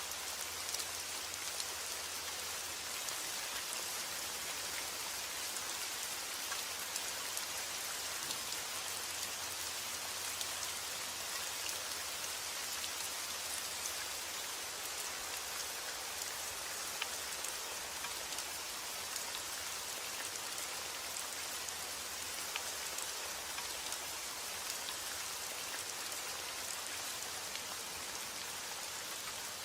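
Steady rain falling on a surface: an even hiss with many fine drop patters, unchanging throughout.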